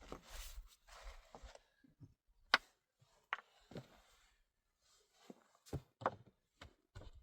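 Rustling, then about seven sharp knocks at irregular intervals.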